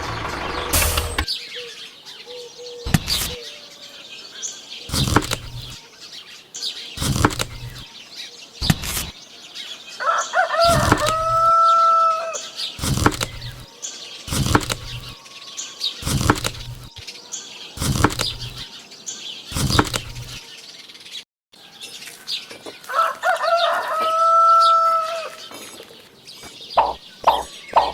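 A bird's wings flapping in short strokes about every two seconds, with two drawn-out calls about 11 and 24 seconds in.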